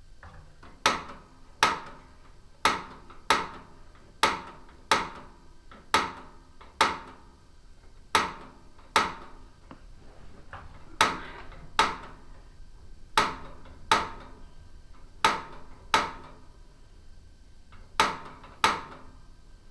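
Pilot igniter of a propane stove clicking over and over, mostly in pairs about a second apart, each click a sharp snap with a short metallic ring, while the pilot fails to catch. The owner puts the failure down to air in the gas line.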